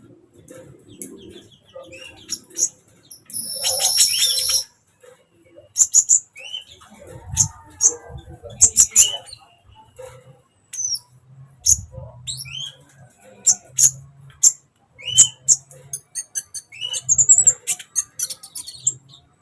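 Kolibri ninja sunbird singing: a rapid, irregular string of sharp, high chips and short notes, with a dense buzzy trill about four seconds in.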